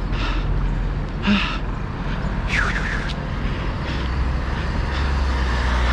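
Runner's heavy breathing, with two hard breaths out in the first second and a half, over a steady low rumble of passing traffic. A short falling squeak sounds near the middle.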